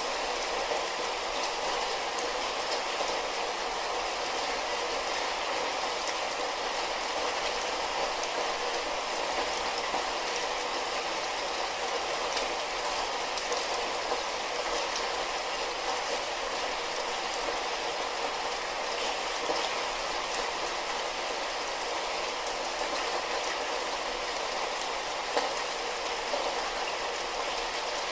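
Light rain falling steadily, an even hiss with a few soft drop ticks now and then.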